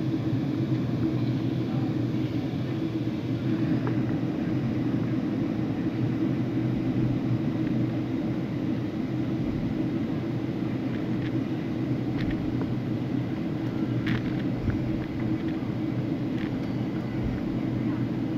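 Steady low drone of a moving vehicle heard from inside, even throughout, with a few faint short high chirps and ticks in the second half.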